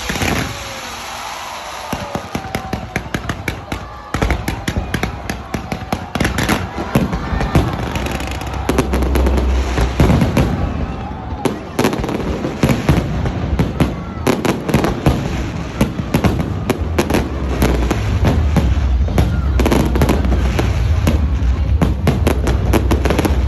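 Fireworks going off in a dense run of bangs and crackles, growing thicker and heavier from about four seconds in, over a low rumble and the voices of a crowd.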